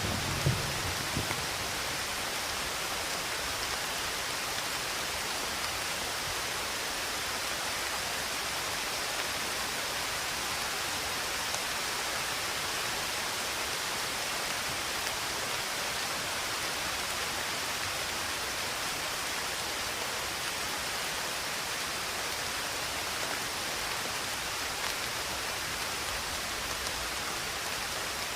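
Steady rain, an even hiss of many drops falling, with the last of a low thunder rumble dying away in the first second or two.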